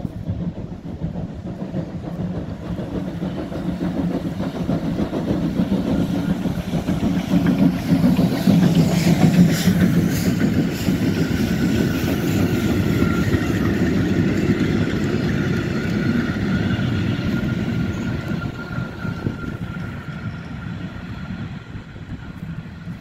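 Steam-hauled passenger train led by Pt47 2-8-2 steam locomotive Pt47-65 running past, its sound swelling to its loudest about nine seconds in and then slowly easing. A steady high tone joins in about halfway through and fades near the end.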